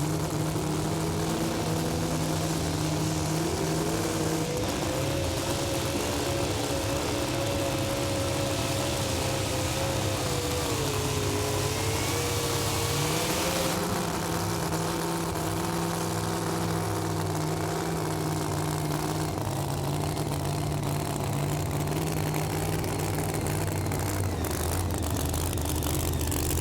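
Super modified two-wheel-drive pulling truck's engine under full throttle during a pull. Its pitch climbs over the first few seconds, dips briefly about ten seconds in, then holds steady.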